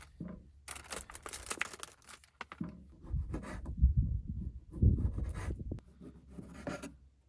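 Knife chopping tomatoes on a cutting board: a run of quick, light clicks and cuts. A louder low rumble comes in the middle.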